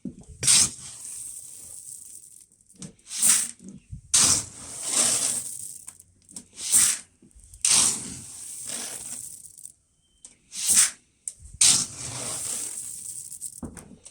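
Dry pig feed being scooped and poured into a bucket, a run of rustling, hissing pours one after another, repeated several times as the scoops go in.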